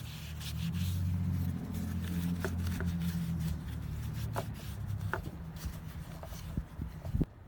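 Hand-work noises: light clicks, ticks and rubbing over a steady low rumble, with a sharp knock just before the sound drops away.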